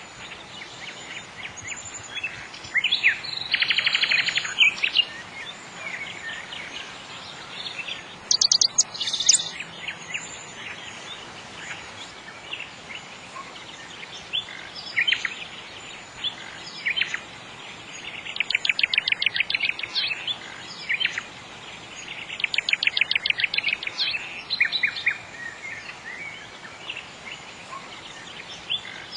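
A nightingale singing in varied phrases separated by short pauses. Three longer songs of fast repeated notes come about 4 s, 19 s and 23 s in, over a faint steady background hiss.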